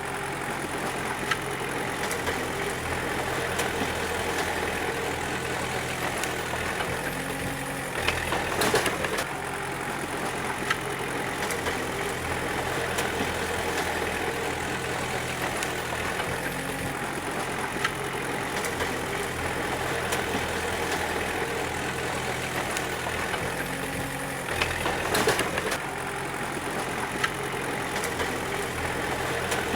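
Bulldozer diesel engine running steadily, with two short, louder bursts of noise about eight seconds in and again near twenty-five seconds.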